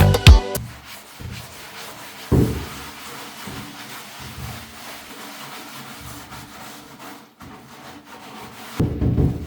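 Steady rubbing and scraping of hand work on a part, with a few soft low knocks. Music cuts off just after the start, and a louder low pulsing sound comes in near the end.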